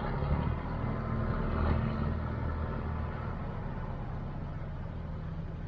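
Boat engine running steadily: a low droning hum, a little louder in the first two seconds.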